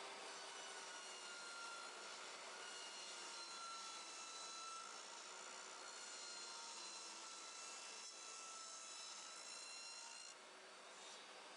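Steady scraping of a woodworking tool on wood, continuous until about ten seconds in, where it becomes quieter.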